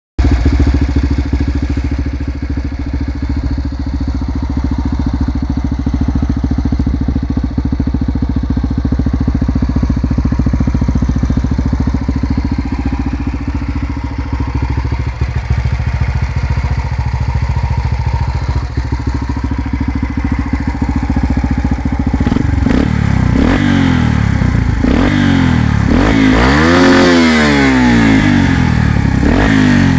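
Yamaha XR 125 motorcycle engine through a Bzl aftermarket exhaust, idling steadily for about twenty seconds. Then it is blipped several times, with one longer rev up and back down near the end.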